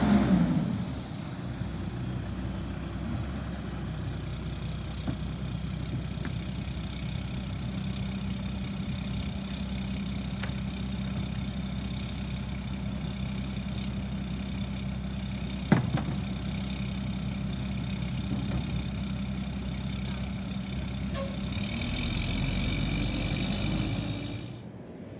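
Garbage truck engine running steadily, with one sharp click about two-thirds of the way through and a louder, higher-pitched stretch near the end that cuts off suddenly.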